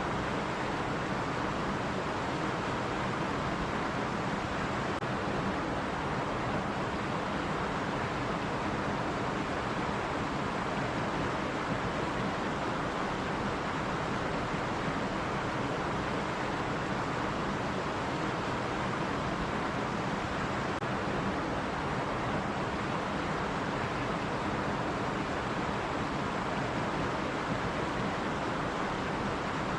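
Stream water running and splashing over rocks in a steady, unbroken rush.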